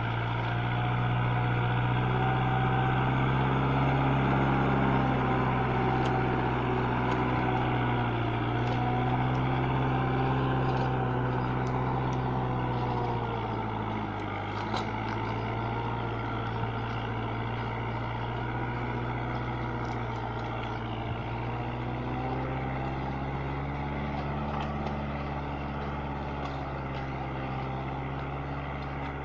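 Kubota MU4501 tractor's four-cylinder diesel engine running steadily, its pitch sagging briefly about halfway through before settling again.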